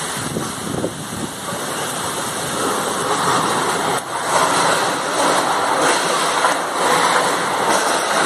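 Storm wind and heavy rain making a loud, steady rushing noise that swells a little about halfway through.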